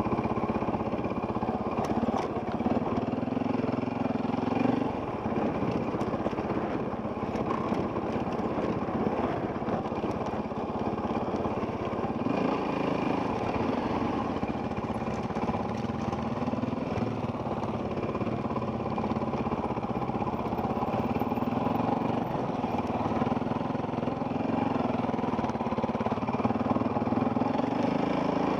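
Enduro dirt bike engine running continuously while riding a trail, its pitch stepping up and down every few seconds with throttle and gear changes, heard close up from a helmet camera.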